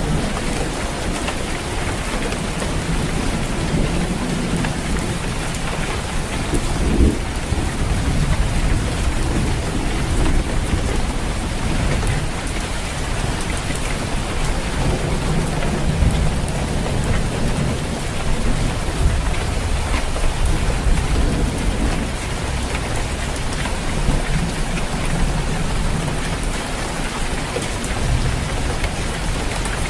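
Steady rain falling on a roof, an even patter throughout, with a low rumble underneath that swells and fades.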